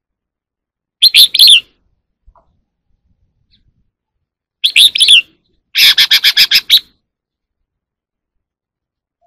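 Red-whiskered bulbul singing: a short warbled phrase, a second one a few seconds later, then a quick run of about nine clipped notes, with silent gaps between.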